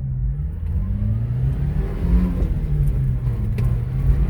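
Small engine of a 4x4 Japanese mini truck pulling the truck along under acceleration. Its note climbs, drops back and climbs again a few times, as it shifts up through the gears.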